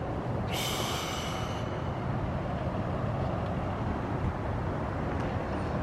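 Steady low rumble of a motor vehicle's engine running nearby, with a brief high hiss starting about half a second in and fading out by about two seconds.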